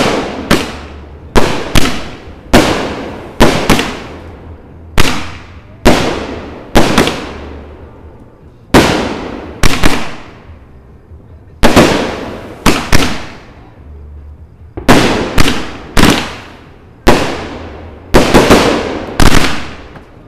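Two 500-gram consumer firework cakes, Temper Tantrum and Troubled Waters, firing together: a rapid string of loud aerial shell bursts, about one a second and at times two or three in quick succession. Each sharp bang dies away over about a second.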